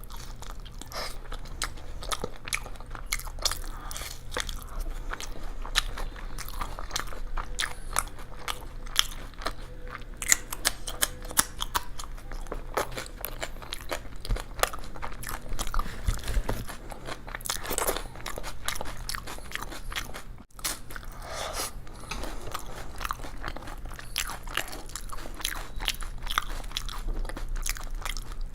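A person eating crisp food close to the microphone: a steady run of crunchy bites and chewing, with a brief break about two-thirds of the way through.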